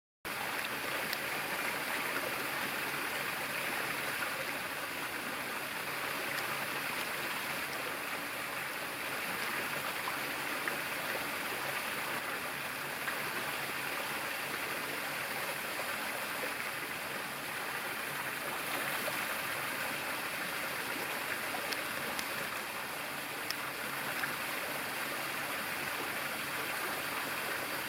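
Steady rush of running water, even and unbroken, with a few faint ticks.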